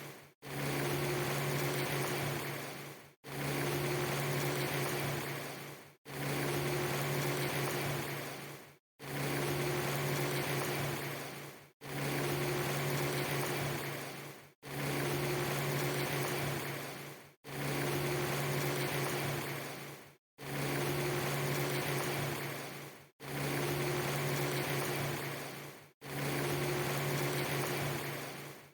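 Steady rain-like hiss with a constant low hum under it. A loop of about three seconds repeats about ten times, each pass fading out into a brief moment of silence before it starts again.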